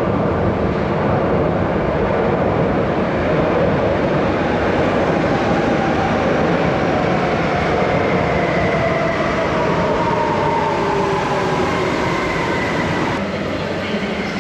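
Passenger train pulling into the station: a loud, steady rumble of wheels and running gear, with faint tones sliding down in pitch as it slows. The noise drops off suddenly near the end.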